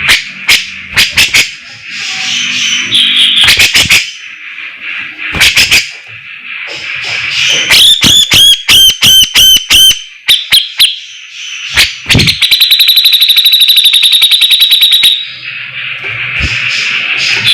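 A cucak jenggot (grey-cheeked bulbul) singing loudly, mixing sharp clicking notes and whistled phrases with rapid chattering rattles (besetan). There is a run of quick repeated notes about eight seconds in, then a fast buzzing rattle lasting a couple of seconds.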